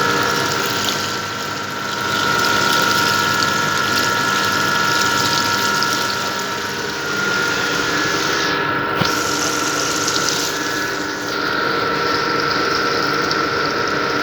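Small electric motor running steadily with a high whine over a hiss, dipping slightly in level a few times.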